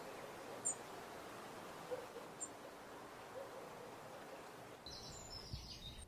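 Faint steady outdoor hiss with wild birds calling: two short, very high chirps and a few soft low calls. Near the end the hiss drops and a run of higher bird calls begins.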